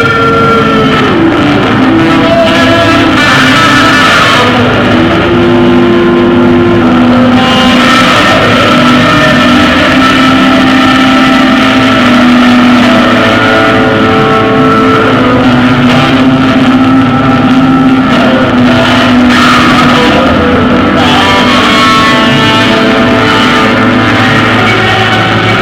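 Loud rock music led by sustained electric guitar notes that bend and slide in pitch.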